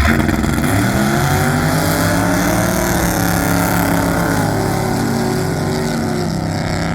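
Supercharged Ford 390 V8 with a 6-71 blower and headers revving. The pitch climbs in the first second, holds high, then drops back a little a bit past halfway and runs steady.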